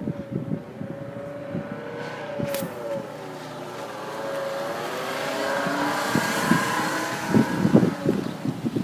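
Wind buffeting the microphone in irregular low thumps, strongest near the end, over a wavering whine that dips in pitch and rises again.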